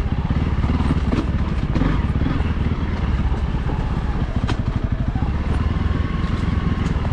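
Honda CRF300L's single-cylinder four-stroke engine running steadily under load while the dirt bike climbs a slick hill, with a few light clicks over it.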